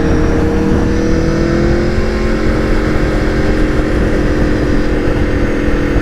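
Aprilia Tuono V4 1100's V4 engine, fitted with an aftermarket exhaust, running under way at a steady speed, its pitch rising a little over the first two seconds and then holding. Wind buffets the microphone underneath.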